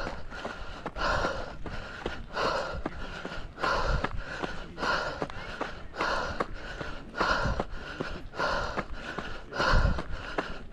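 A runner's hard, rhythmic breathing while climbing a steep trail, one loud breath a little more often than once a second, the sign of heavy uphill exertion. Low footfalls thud underneath.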